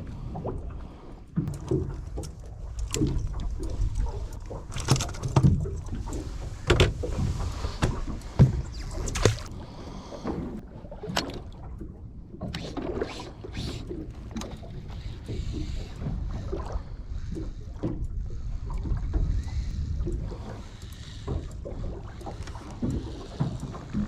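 Small fishing boat out on the water: irregular knocks and thumps over a steady low rumble, loudest around five to nine seconds in.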